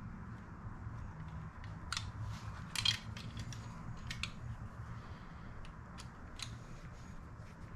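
Scattered small clicks and taps of small metal parts and hand tools being handled on a workbench, the loudest a short cluster about three seconds in, over a low steady hum.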